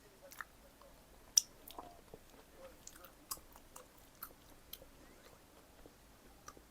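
Close-up chewing of pizza: soft, wet mouth clicks and light crunches at irregular intervals, the sharpest about a second and a half in.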